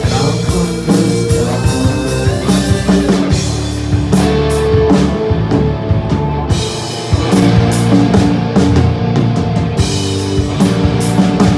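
Rock band playing an instrumental passage live, with guitar and drum kit and no singing.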